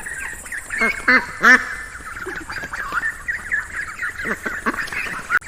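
A brood of ducklings peeping continuously in many short, quick high chirps, with a few louder, lower calls about a second in.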